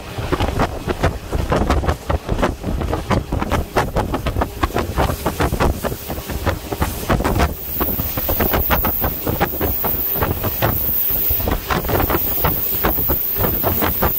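Diesel railcar running at speed, heard from a window: wind buffeting the microphone over the rumble and clatter of the wheels on the track.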